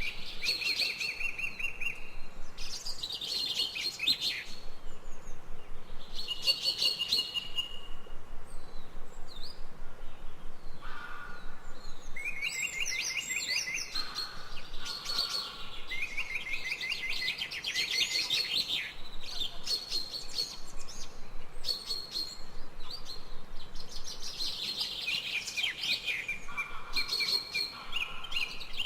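Songbirds singing: short, high-pitched trills of rapid repeated notes, coming every few seconds, with a few lower notes in between.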